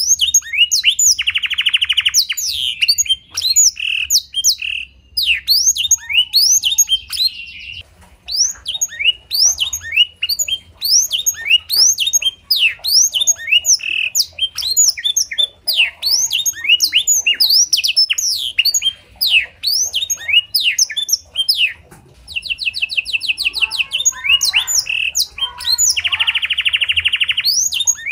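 Domestic canary singing a continuous song learned from the blackthroat: rapid runs of quick down-slurred whistles, broken by several fast buzzy trills.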